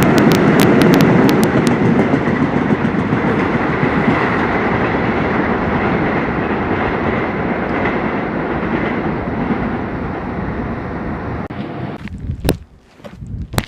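Subway train passing, with sharp wheel clicks in the first couple of seconds and its rumble fading away over about ten seconds. Footsteps near the end.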